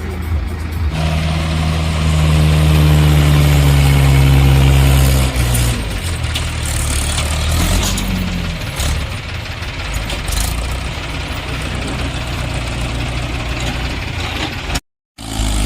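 Tractor diesel engine running. For a few seconds near the start it holds a strong steady drone, then drops back to a rougher running noise. The sound cuts out briefly near the end.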